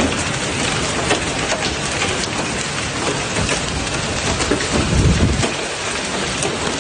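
Hailstones pelting down in a steady, dense clatter of many small impacts over a heavy rain-like hiss.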